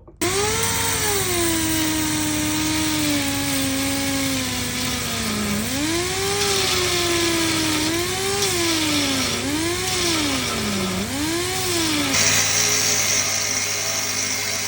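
Subaru Impreza WRX STI turbocharged flat-four engine heard through its aftermarket BE FREE muffler. Engine speed sags slowly from a raised level, then four quick throttle blips rise and fall, and about twelve seconds in it settles to a steady idle.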